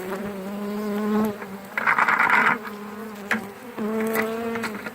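Honeybees from a swarm being hived buzzing close by, a steady hum that wavers in pitch as individual bees fly past. A short scratchy rustle about two seconds in.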